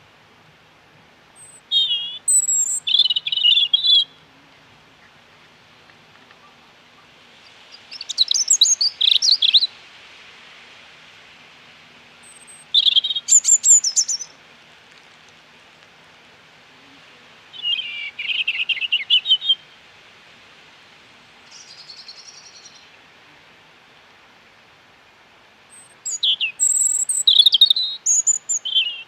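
A songbird singing short, high, quickly warbled phrases of about two seconds each, repeated every four to five seconds, with one phrase near the middle much fainter, over a faint steady outdoor hiss.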